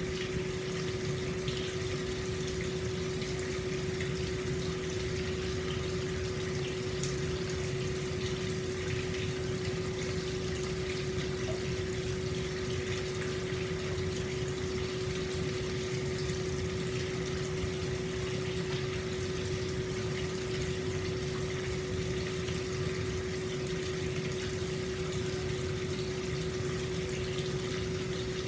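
Hot spring water pouring steadily into an open-air bath, a constant rushing splash with a steady low hum running under it.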